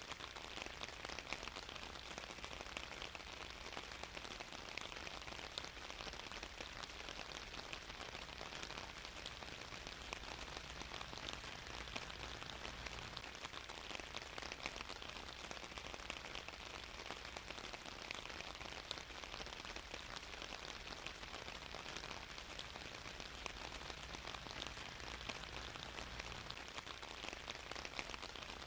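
Steady rain falling on a surface, a constant hiss of many fine drop patters with a faint low rumble beneath, unchanging throughout.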